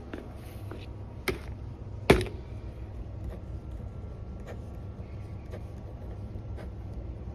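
Steady low rumble of a car on the move, heard from inside, with two sharp knocks less than a second apart, the second the loudest.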